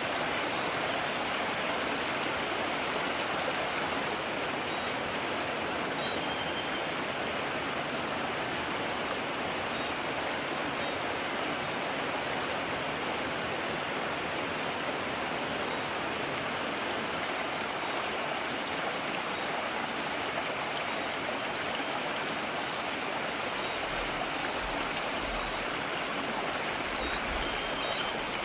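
Mountain stream rushing steadily over rocks, an even flow of water noise, with a few faint high chirps above it.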